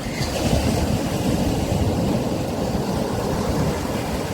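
Sea waves breaking and washing up a beach: a low, rumbling surge of surf that swells about half a second in and eases off near the end.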